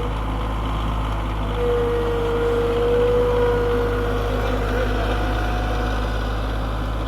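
Tractor engine running steadily. A higher whine joins in about a second and a half in and fades away around five seconds, with the engine a little louder meanwhile.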